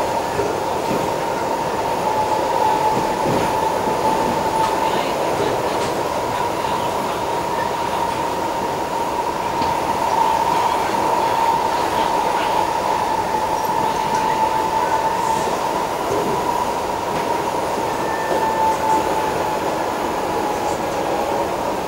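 In-car running noise of a Kawasaki-CSR Sifang C151A electric multiple unit travelling at speed: steady rumble of wheels on rail with a steady high whine over it.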